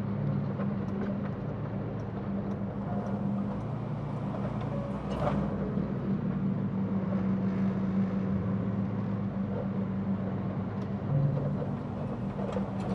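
Semi truck's diesel engine running with a steady low drone while driving.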